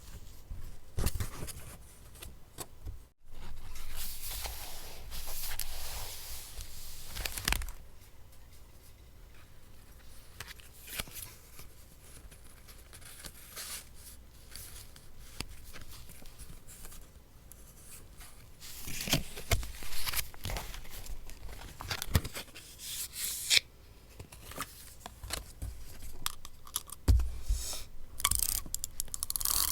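Paper being worked by hand for a collage: cut with scissors and torn, with rustling and handling in between. The strokes come irregularly, with longer stretches of tearing and cutting about a quarter of the way in, past the middle, and near the end.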